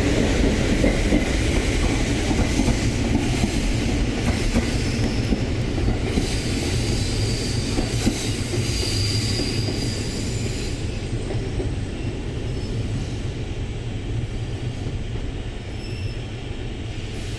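E501 series electric train pulling out and running away: wheels clacking over rail joints, with a thin high wheel squeal about a third to halfway in. The sound slowly fades as the train moves off.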